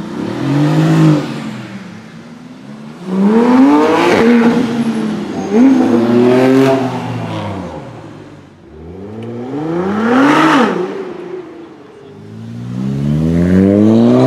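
High-performance car engines revving hard about four or five times, each time the pitch climbing steeply and then dropping back.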